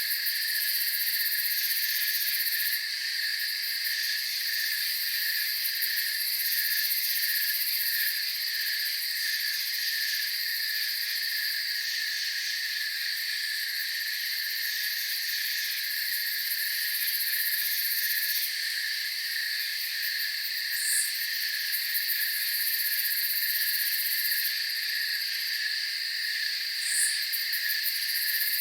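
Night chorus of crickets and other insects: several steady high trills layered together, one lower trill pulsing evenly. Two short, very high chirps stand out, one about two-thirds of the way through and one near the end.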